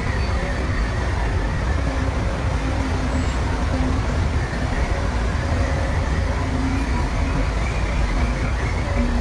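Heavy earthmoving machinery's diesel engine running steadily, a constant deep rumble with a faint engine tone coming and going over it.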